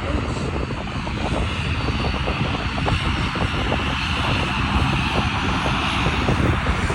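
De Havilland Dash 8 Q400 turboprop going by: a steady rumble of its engines and propellers, with a high whine that swells through the middle and eases near the end.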